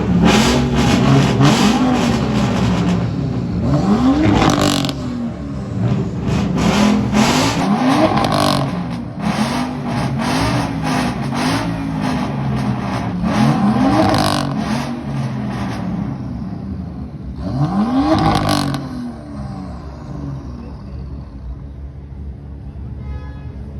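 A car engine revved over and over in short throttle blips, about one a second, with sharp cracks in between. It eases off to a steadier idle near the end.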